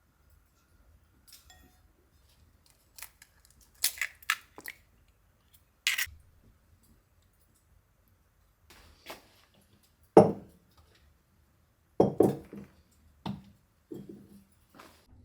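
Kitchenware being handled: a few light clinks, then several louder dull knocks, the loudest about ten seconds in and a quick double knock about two seconds later.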